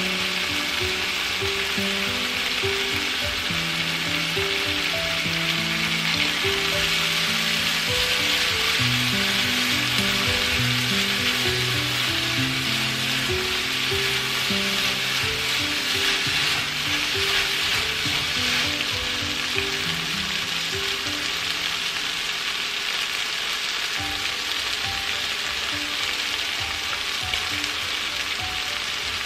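Ground beef, tomato, yellow pepper and onion sizzling in a frying pan while being stirred with a spatula. Soft background music with held notes plays underneath.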